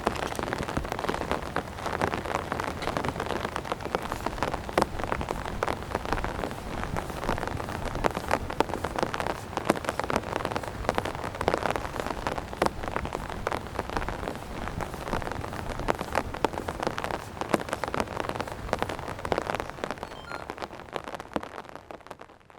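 Heavy rain falling steadily, with many individual drops splashing sharply close by; the sound fades out near the end.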